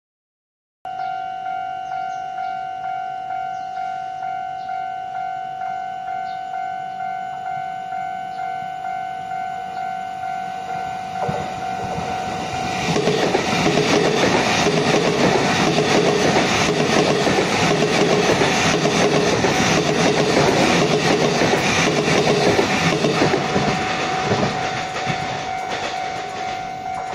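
Level-crossing warning bell ringing in a steady pulse about twice a second. About 13 seconds in, a Taiwan Railway EMU900 electric commuter train passes over the crossing with loud wheel clatter, which eases off a couple of seconds before the end as the bell carries on.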